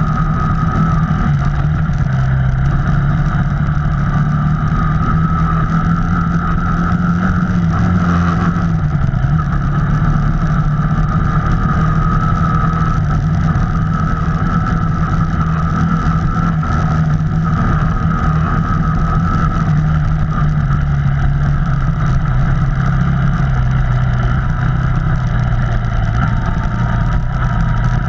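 Off-road vehicle engine running steadily while riding a trail, its pitch rising and falling slightly with the throttle.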